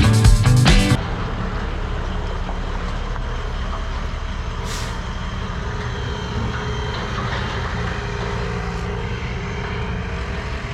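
Guitar rock music cuts off about a second in, giving way to a claw truck's diesel engine running steadily, with a short hiss of air near the middle.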